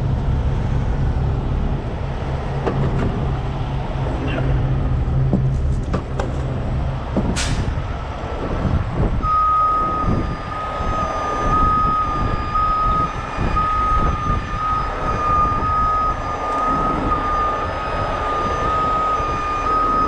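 Heavy diesel truck running, with a brief hiss of air about seven seconds in. From about nine seconds on, a reversing alarm beeps steadily: the vehicle is backing up.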